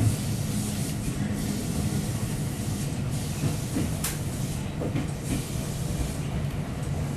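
JR Shinkaisoku electric commuter train running slowly, with a steady low hum and hiss and a few sharp clicks from the wheels and car.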